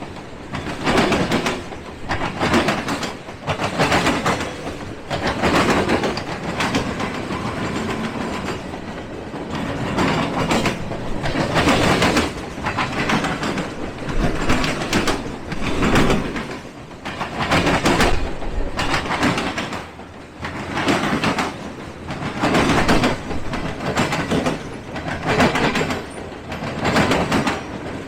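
A train rolling past: a steady rumble of railroad cars with their wheels clacking over the rail in a regular rhythm, about one loud clack a second.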